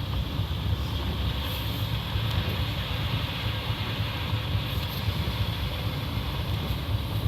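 Steady low rumble of a car driving on snow-covered roads, heard from inside the cabin.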